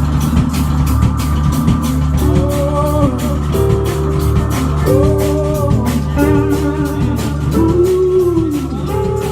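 Live rock trio playing: a lead line of bending, sliding notes over bass and drums, with an even cymbal beat.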